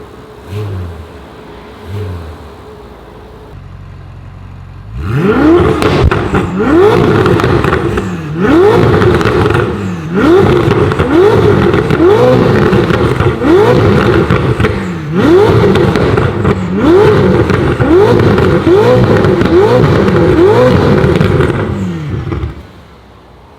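Ferrari 488 Spider's twin-turbo V8 through an Akrapovic titanium exhaust: two short blips over idle, then a long series of hard revs, about one a second, each climbing and falling back. The revving stops shortly before the end.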